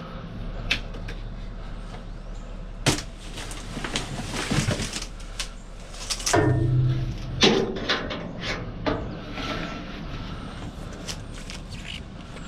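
Irregular knocks and clattering of scrap being handled and shifted while a trailer is loaded, with busier stretches about four seconds in and again about six to seven and a half seconds in.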